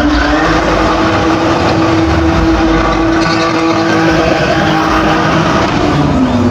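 Car engine held at high, steady revs during a drift, with tyre noise underneath; the revs fall away near the end.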